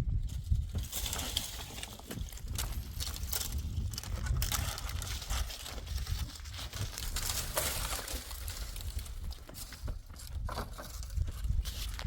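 Rustling and crunching with scattered sharp clicks, over a low steady rumble.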